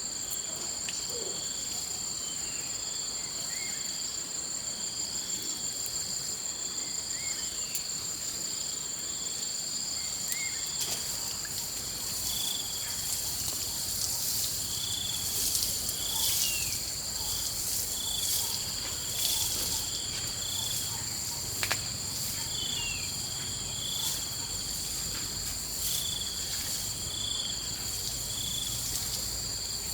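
Insects droning steadily in a high, even chorus, with short chirps breaking in every second or two and a few faint clicks.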